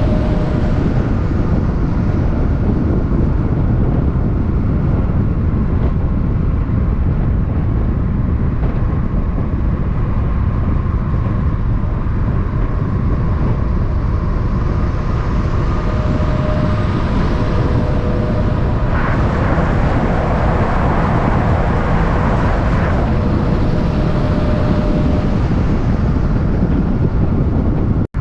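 Steady, loud vehicle rumble with road noise, and a louder rush of sound about twenty seconds in.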